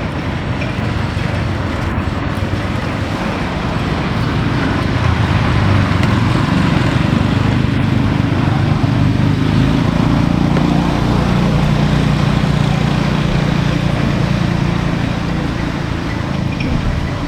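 A motor vehicle's engine running close by, growing louder toward the middle and easing off near the end, as if passing slowly.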